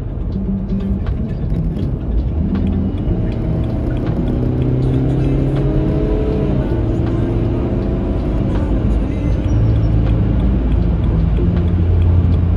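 BMW E91's engine and road noise heard inside the cabin, with background music. The engine pitch rises steadily under acceleration, then drops at a gear change about six and a half seconds in.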